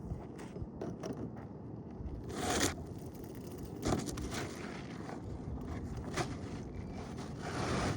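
A few short scrapes and rustles of asphalt roof shingles being handled, over a steady background hiss.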